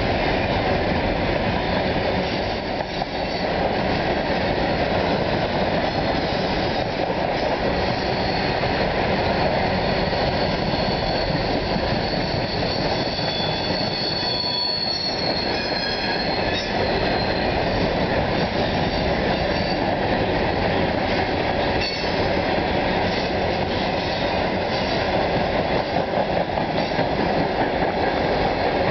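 Freight train of covered hopper cars rolling past: a steady rumble and clatter of steel wheels on rail, with thin, high wheel squeal rising through the middle.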